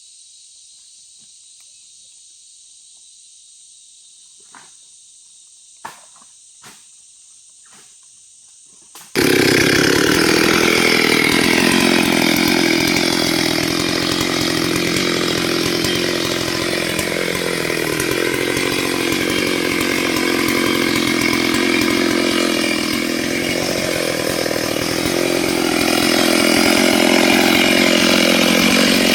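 Insects chirring steadily with a few faint clicks, then about nine seconds in a STIHL 72cc two-stroke chainsaw comes in abruptly at full volume and runs at high revs cutting wood, its note wavering slightly under load.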